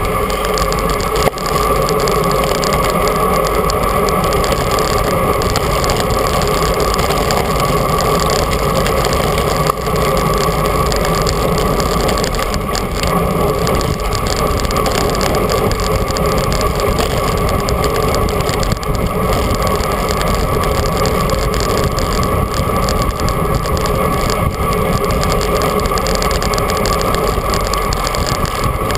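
Steady rush of wind buffeting the microphone, with tyre noise, while riding a bicycle at speed.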